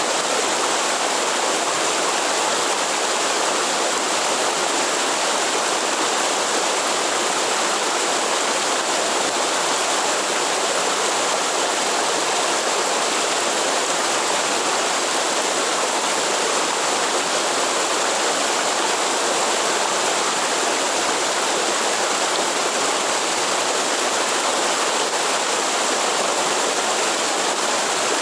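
Waterfall and rushing stream water falling and flowing in a continuous, steady rush.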